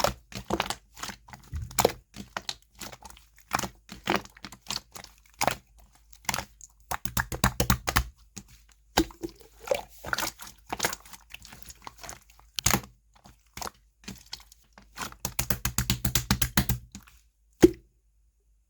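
Slime being squished and mixed by hand, making a fast, irregular run of clicking, crackling pops. It ends with one sharper pop shortly before the end.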